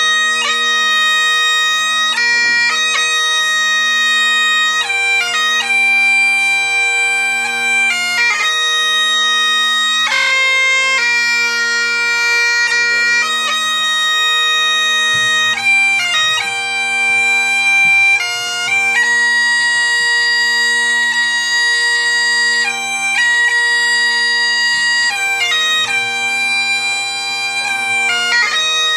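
Bagpipes playing a slow tune: the melody moves from note to note every second or two over steady, unchanging drones.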